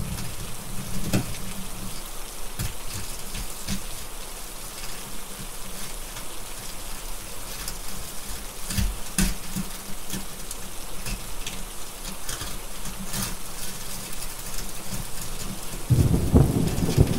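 Steady rain with scattered sharp crackles from a wood fire. A low rumble of thunder dies away in the first two seconds, and another rolls in near the end.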